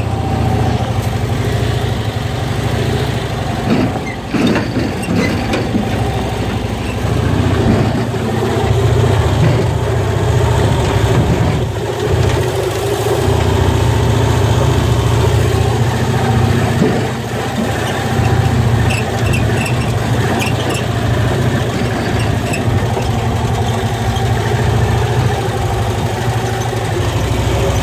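1980 Cushman Truckster's small engine running steadily under way, its note swelling and easing a little with the throttle.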